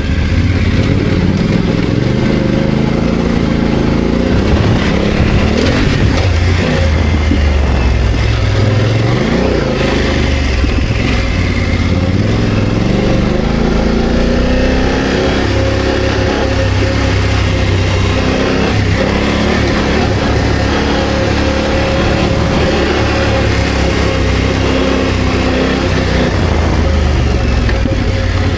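BMW F900GS's parallel-twin engine running under way, its pitch rising and falling again and again as the throttle is opened and closed.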